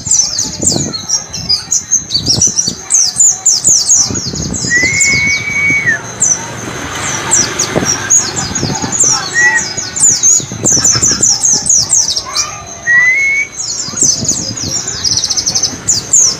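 White-eyes (pleci) twittering in fast runs of high chirps, the 'ngalas' wit-wit-cer song used as a training recording, with a few longer, lower whistled notes between the runs.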